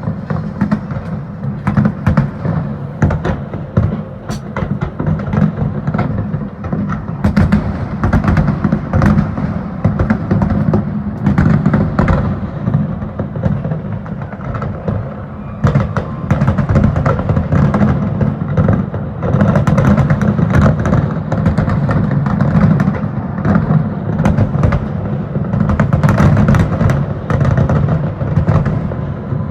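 Fireworks display: shells bursting in quick succession, many sharp bangs and crackles over a continuous low rumble.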